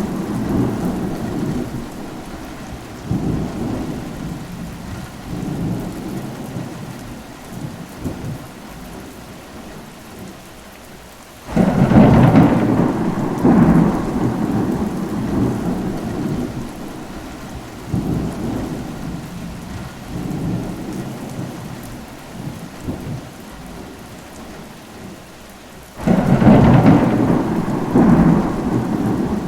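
Steady rain with rolling thunder. A thunderclap breaks in suddenly about a third of the way in and another near the end, each rumbling low and dying away over several seconds.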